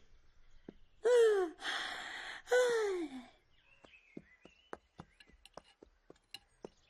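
A cartoon character's voice giving two wordless sighs or moans, each falling in pitch, with a breathy rush between them. After that come only faint, scattered short clicks.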